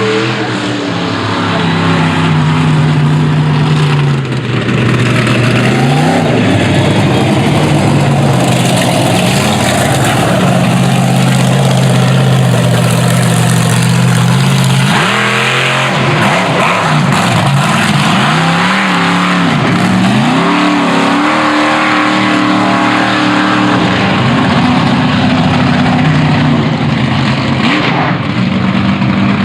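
Monster truck engine run hard, the throttle held at high revs for long stretches, dropping off and picking up again several times in quick succession.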